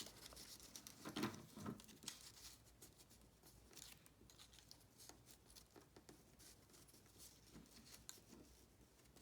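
Faint, scattered rustles and light taps of paper being handled and positioned on a work surface, close to near silence.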